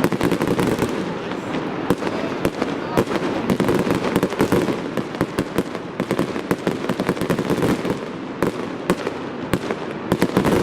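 Fireworks display going off: a rapid, continuous run of sharp bangs and crackling pops over a steady rumble.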